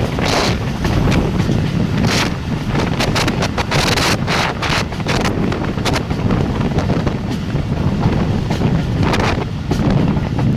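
Jaffar Express passenger train running at speed: a steady rumble with frequent sharp clacks of wheels over rail joints, and wind buffeting the microphone.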